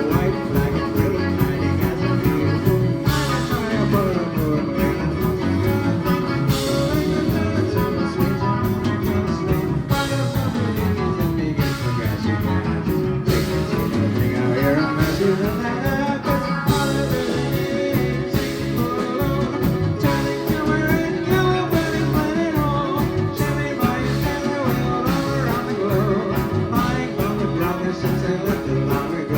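A live rock band playing an instrumental stretch: electric guitars, bass and a steady drum beat, with slow sliding pitch sweeps that fall and then climb back up partway through.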